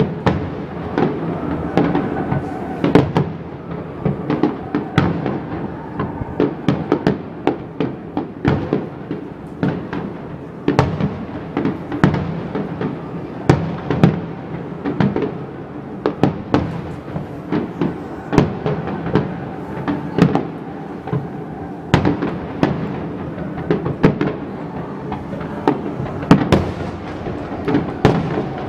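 Aerial fireworks bursting in rapid succession: many sharp bangs of varying loudness, several a second, without a break.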